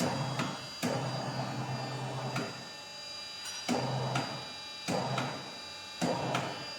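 Truck tyre changer's motor running in short bursts, five times, each run starting with a clunk, as the wheel is turned to work the tyre bead off the rim.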